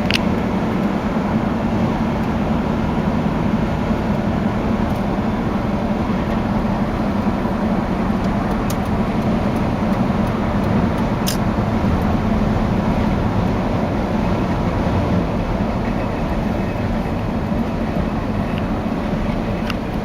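Steady road-traffic noise: vehicle engines and tyres on the road, with a low engine drone throughout.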